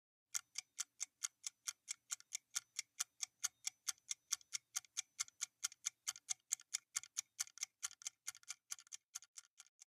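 Clock-ticking countdown sound effect: a steady run of sharp ticks, about four or five a second, growing fainter near the end.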